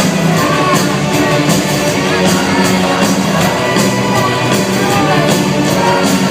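Rock band playing live and loud, with a steady drum beat carried by cymbal strokes over bass and guitar.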